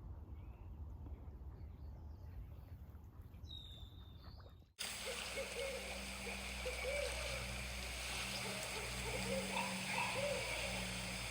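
Faint background hiss with a brief high bird chirp, then a sudden cut at about five seconds to a barred owl hooting: a run of short hoots over a steady low hum.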